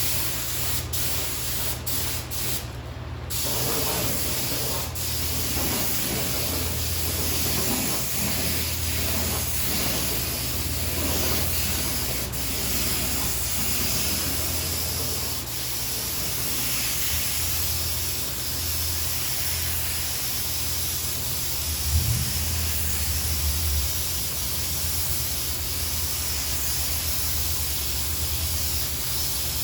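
Paint spray gun hissing as it sprays sealer onto a truck fender. It gives a few short squirts at first, then sprays steadily, over a steady low hum with one brief low thump about two-thirds of the way in.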